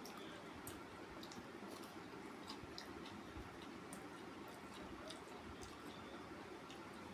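Person chewing food, faint, with scattered small mouth clicks, over a steady low background hum.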